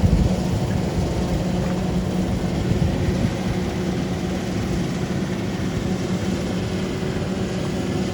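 Rice harvesting machine running steadily: an even engine drone with a constant low hum, unchanging throughout.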